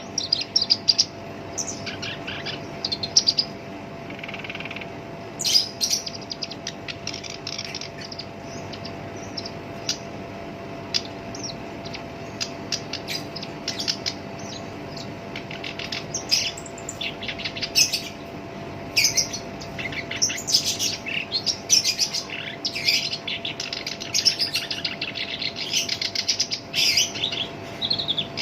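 Black-browed reed warbler singing a rough, harsh song of rapid chattering notes, scattered at first and becoming dense and almost unbroken in the second half. A faint steady hum sits underneath.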